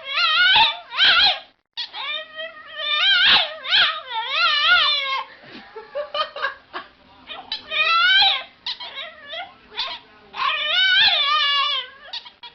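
A dog whining and howling in wavering calls that rise and fall in pitch, four or five bouts with short pauses between them.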